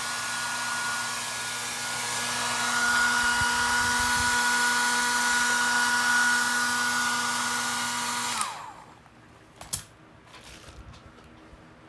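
Hair dryer blowing steadily with a motor whine. It is switched off about eight and a half seconds in, and the whine falls away as it spins down. A single sharp click and faint light ticks follow.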